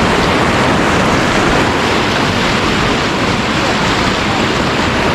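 Rushing river water heard from a raft, a loud steady rush, with wind buffeting the microphone.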